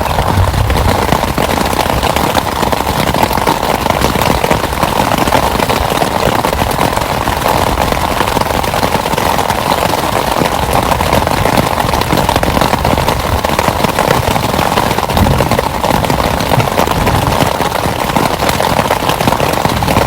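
Heavy rain falling steadily, a dense unbroken hiss of many small drop impacts.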